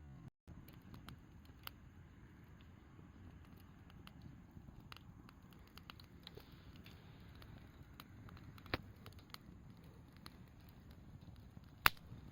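Wood campfire crackling faintly, with scattered small pops and two sharper snaps, the loudest near the end.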